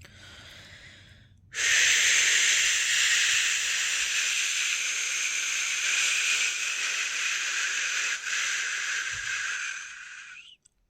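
A person's voice making a long, loud 'shhh' shushing sound to soothe a newborn to sleep, as in the shush-pat settling method. A softer shush comes first, then the loud one starts about a second and a half in and is held for about nine seconds before stopping near the end.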